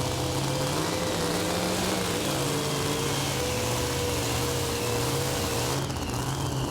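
Super modified two-wheel-drive pulling truck's engine running steadily at full power as it pulls the sled down the track, easing off about six seconds in.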